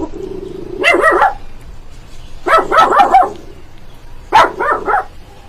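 Dog barking in three quick volleys about a second and a half apart, three or four barks in each.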